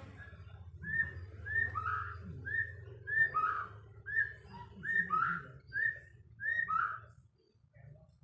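White-rumped shama (murai batu) singing a short whistled phrase, a high note followed by a lower downward-sliding note, repeated about eight times in quick succession before stopping near the end.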